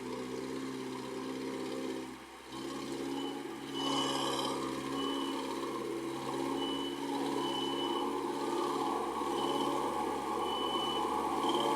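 UAZ Bukhanka van's engine running and pulling under load; it dips briefly, then revs up and gets louder about four seconds in. Short high-pitched squeaks sound on top of it at uneven intervals.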